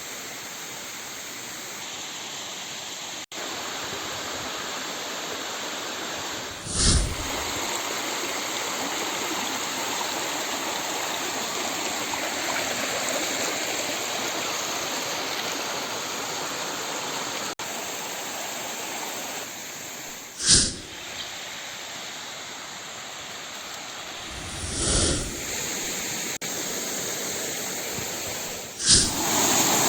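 Waterfall rushing steadily, a continuous even roar of falling water, broken four times by short, louder bumps.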